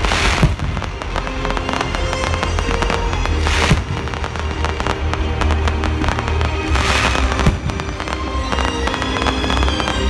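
Fireworks display: aerial shells bursting into dense crackling stars, with a loud burst of crackle about every three to four seconds, over music playing throughout.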